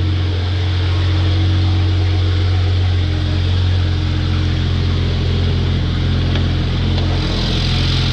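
BMW 335i's twin-turbo N54 inline-six idling steadily shortly after a cold start.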